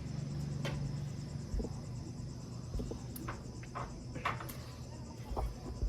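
Insects, crickets by their sound, trilling steadily in the background, with a few scattered light clicks and knocks.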